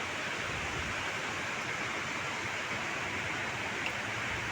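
Steady rush of heavy cyclone rain, with a faint tick near the end.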